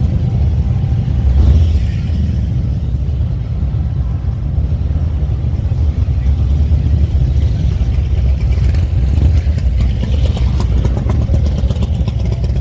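Motorcycle engines running and revving in passing street traffic, a steady low rumble with a louder swell about a second and a half in.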